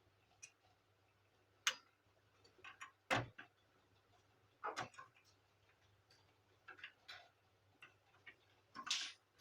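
Scattered sharp clicks and knocks of hard plastic printer parts being handled and set down during disassembly of a Canon imageCLASS MF4750 laser printer, about eight in all at irregular intervals, over a faint steady low hum.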